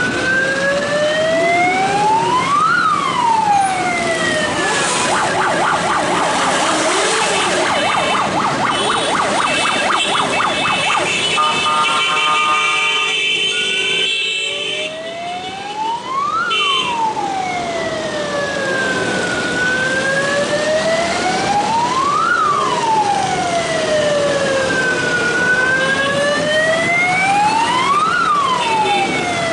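Electronic siren sounding a slow wail that rises and falls about every six seconds. Partway through it switches to a rapid yelp for several seconds, then to a few seconds of steady tones, before going back to the slow wail.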